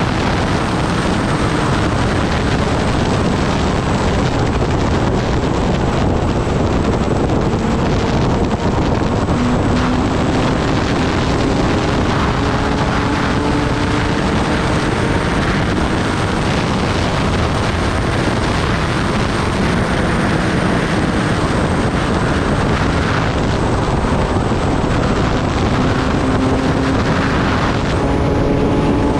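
Kawasaki Ninja ZX-10R inline-four motorcycle being ridden at speed. Steady wind rush over the microphone dominates, with the engine note underneath slowly rising in pitch and dropping back several times.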